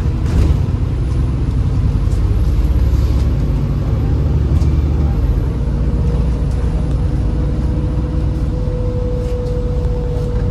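Inside a MAZ-203 low-floor city bus under way: steady engine and road rumble, with a faint high whine above it.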